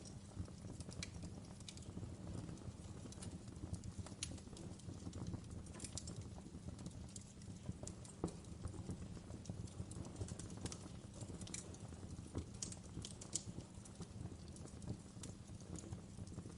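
Wood fire burning in a fireplace: irregular sharp crackles and pops over a low steady rumble of the flames, with one louder pop about halfway through.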